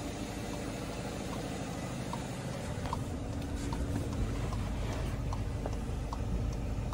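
Volkswagen T-Roc 2.0 TDI four-cylinder diesel idling steadily in park, a low even rumble.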